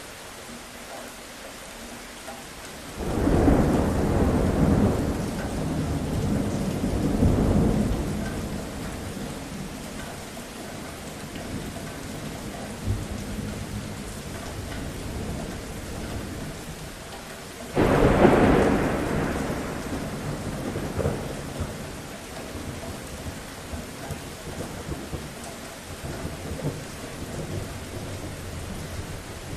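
Steady rain falling, with two rolls of thunder. The first starts about three seconds in and rumbles for about five seconds in two swells. The second breaks sharply about eighteen seconds in and fades over several seconds.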